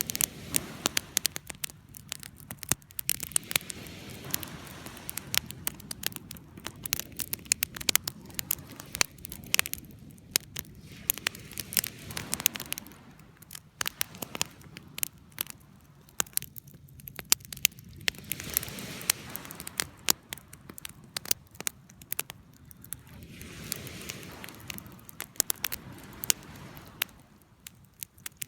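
Burning wood campfire: dense sharp crackles and pops over a low rush of flames that swells and fades every few seconds.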